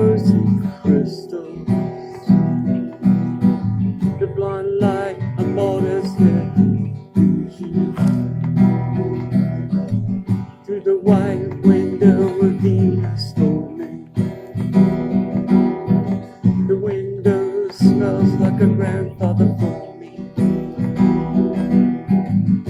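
Acoustic guitar strummed steadily through an instrumental stretch of a song.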